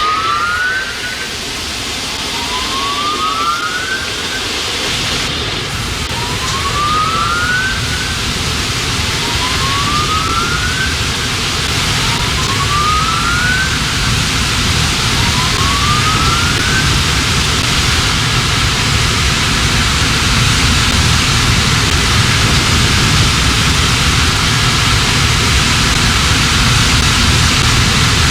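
Automatic car wash tunnel running: a steady rush of spray and machinery that slowly grows louder, with a low rumble joining about five seconds in. A short rising whoop tone repeats about every two and a half seconds through the first two-thirds.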